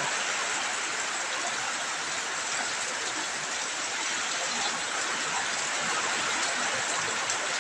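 Heavy rain pouring down in strong wind, an even, steady hiss.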